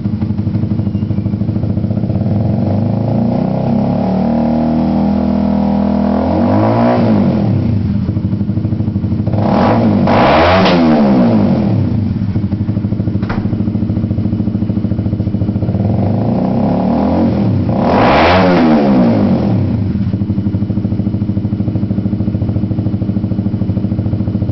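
Honda CBR150R FI single-cylinder engine idling through a short fabricated exhaust pipe fitted with a resonator/mini-muffler, blipped up and back down three times, the highest rev about ten seconds in. A single sharp click sounds about thirteen seconds in.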